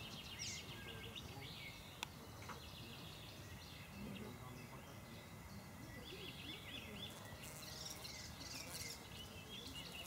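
Birds chirping in the background in short, quick, high calls, clustered near the start and again in the second half, over a low steady outdoor rumble. A single sharp click comes about two seconds in.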